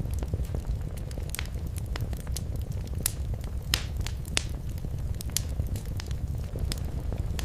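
Wood fire in a fireplace crackling: a steady low rumble of flames with frequent sharp pops and snaps, a few louder pops in the middle.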